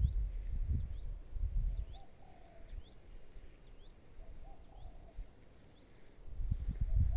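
Insects droning steadily on one high note, with short high chirps repeating through the middle and a few faint lower calls. Low rustling thuds at the start and again near the end.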